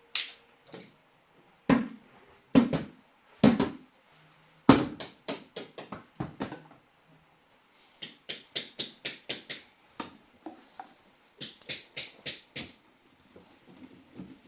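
A series of sharp knocks, a few heavy ones spaced out at first, then quicker runs of lighter taps at about three a second.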